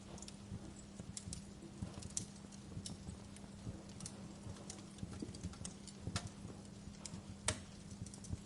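Wood fire crackling in a fireplace: a constant scatter of small sharp crackles with a few louder pops, the loudest about six and seven and a half seconds in, over a low rumble and a steady low hum.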